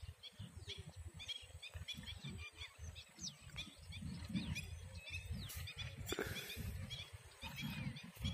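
Many small birds chirping in quick short notes throughout, over an uneven low rumble on the phone's microphone.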